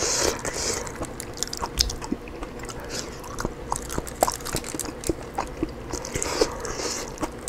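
Close-miked eating sounds: chewing and wet mouth clicks while rotisserie chicken is pulled apart by hand. There are many short irregular clicks, and two brief rustling hisses, near the start and about six seconds in.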